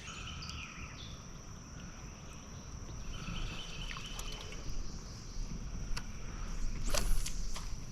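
Outdoor river ambience: a steady high-pitched insect buzz over a low rumble of wind, with faint bird chirps and a few small clicks. A short hiss comes about seven seconds in.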